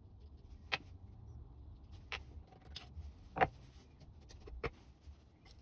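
Light clicks and clinks of engine parts being handled during a teardown, about five separate ones with the loudest about halfway through, over a faint low hum.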